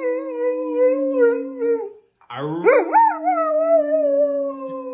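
A dog howling: one long howl trails off about two seconds in, then a second long howl starts with a rising, wavering note and then holds steady.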